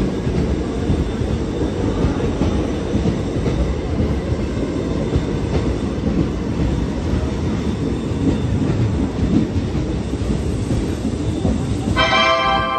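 Passenger express train rolling in along the platform, its coaches and wheels giving a steady, loud rumble. Near the end a station public-address chime begins.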